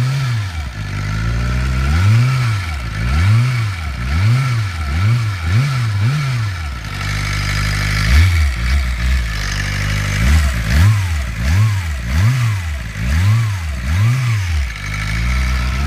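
2007 Suzuki GSX-R inline-four engine being blipped again and again, its revs rising and falling about fourteen times. Under the revs runs a steady high whine that does not follow the engine speed: the noise the owner is trying to track down.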